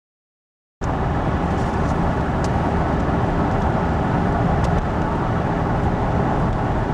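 Steady road and engine noise of a moving vehicle, cutting in abruptly about a second in.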